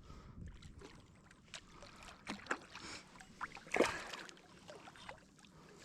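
Faint water sounds around a kayak with scattered light knocks and clicks from handling a freshly landed skipjack tuna on board; one sharper knock comes just under four seconds in.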